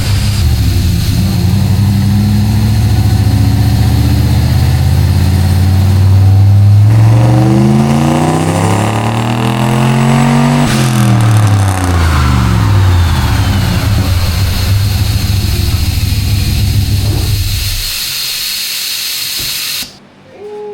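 1976 Ford F-250's engine on a chassis dyno: running steadily under load, then revving up smoothly over about four seconds, dropping back off sharply and settling to a steady run. Near the end it drops to a quieter level before cutting off.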